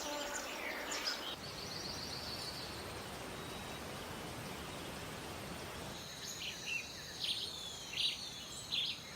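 Rainforest ambience: a steady background hiss with birds chirping. A short trill of repeated high notes comes early, and several short chirps and falling calls cluster near the end.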